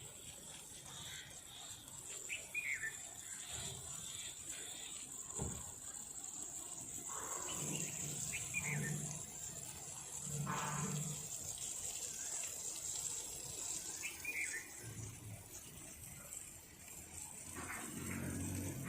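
Water trickling and gurgling, with a few short falling bird chirps over a steady high hiss.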